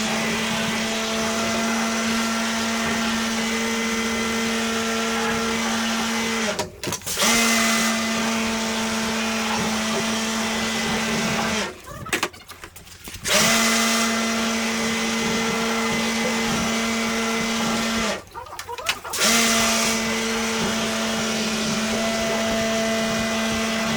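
The electric motor of air-conditioner cleaning equipment running at a steady pitch in stretches of several seconds. It switches off and back on three times, with a pause of about one to one and a half seconds each time.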